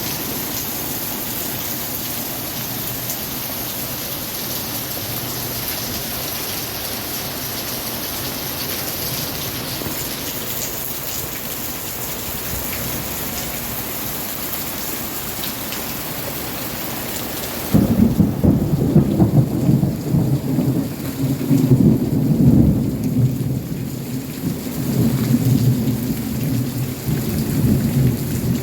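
Steady rain falling, an even hiss. About two-thirds of the way through the sound changes abruptly to a louder, uneven low rumble under the rain.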